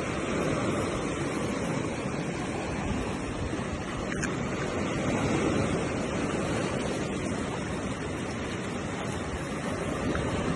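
Steady wash of sea surf, with wind noise on the microphone and a couple of faint clicks.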